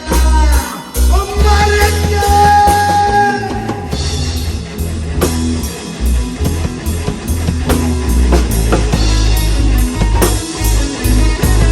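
Rock band playing: drum kit, guitar and bass under a long held note about two seconds in.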